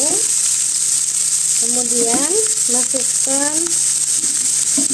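Chopped garlic and onion sautéing in hot oil in a pan, a steady high sizzle as they fry until slightly wilted.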